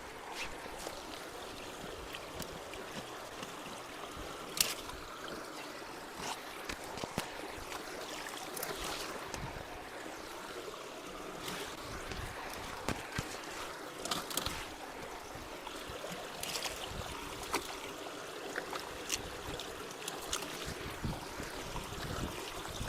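Creek water running steadily, with scattered sharp clicks and knocks every few seconds.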